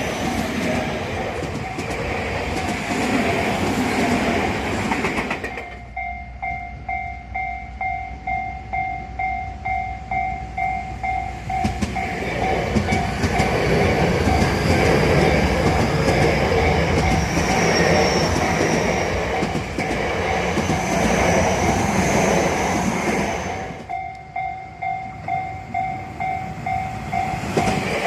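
Electric trains running past on the track. Between the trains, a level-crossing warning bell rings with a steady ding-ding about twice a second: once from about five seconds in, and again near the end.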